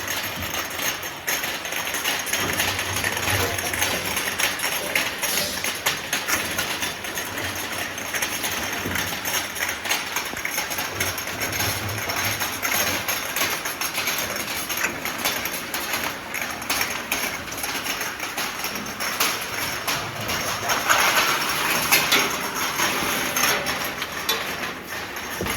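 Ultrasonic glass-bottle washing machine running, with steady hiss and many quick clicks and knocks from the mechanism and the glass bottles moving through it.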